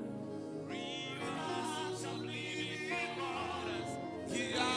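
Worship music: sustained keyboard chords under singing voices with vibrato, the congregation singing a worship song.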